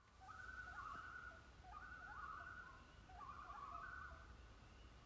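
A bird calling faintly: a series of wavering calls, each about a second long, repeated about every second and a half.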